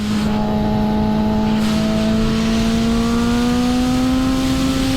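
2006 Suzuki GSX-R 750's inline-four engine pulling steadily under throttle, its note rising slowly and evenly, with wind rush building from about a second and a half in.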